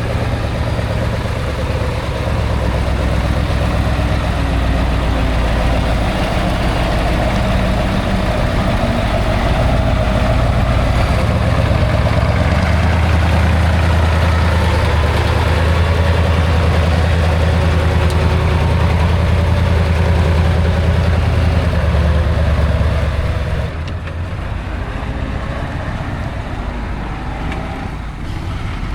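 Heavy off-road trial truck's diesel engine running with a steady low rumble, which gets quieter about 24 seconds in.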